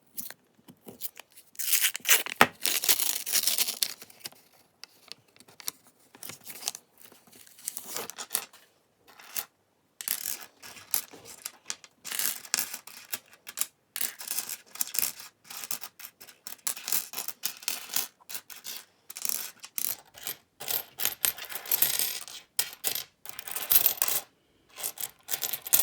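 Pennies clinking and sliding against one another as they are handled and spread out by hand, in many small irregular clicks. Two stretches of rustling, about two seconds in and again near the end, fit a paper coin-roll wrapper being torn open.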